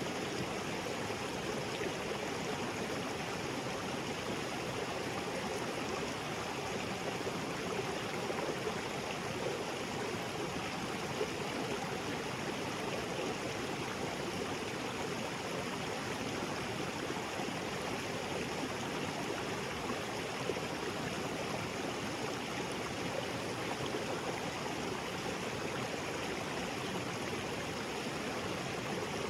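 Small waterfall spilling into a rocky jungle creek: a steady rush of falling and flowing water.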